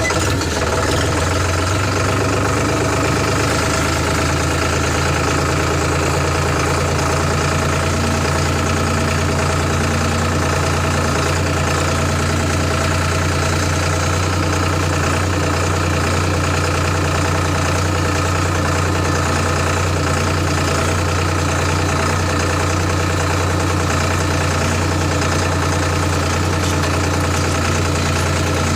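Sonalika DI 734 tractor's diesel engine idling steadily, its pitch and level unchanging throughout.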